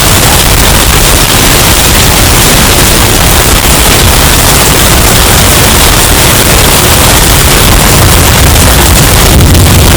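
Hurricane wind sound effect, heavily bass-boosted and pushed into distortion: a steady, very loud roar of noise with an overdriven booming low end that swells a little near the end.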